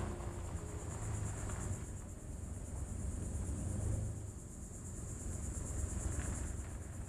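Insects chirring steadily in a high-pitched, evenly pulsing drone, over a low steady rumble.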